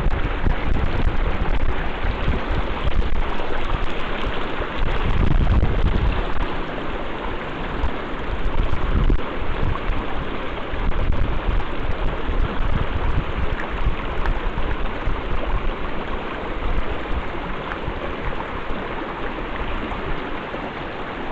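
Steady rushing of river water, with wind gusting on the microphone in uneven low rumbles that ease off in the second half.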